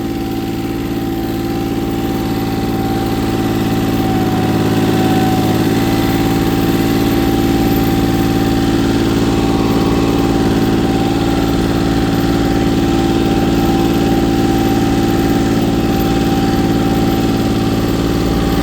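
Three-cylinder diesel engine of a 1980 Case International 1120 compact tractor running steadily, with a thin steady whine above it. The engine gets a little louder about five seconds in and then holds.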